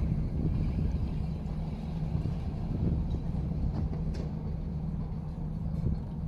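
An engine running steadily: a low, even hum with a constant tone.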